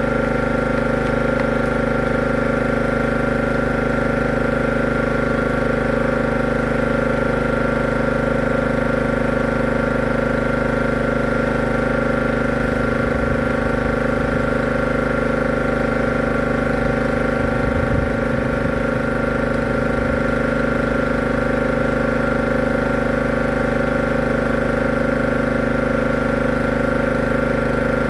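A motor-driven machine running steadily: a constant hum holding one pitch throughout.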